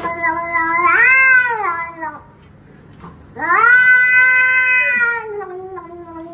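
Cat yowling in long, drawn-out calls: a held call, then a loud one rising and falling in pitch about a second in, and a second long yowl a few seconds in that slides down in pitch at the end.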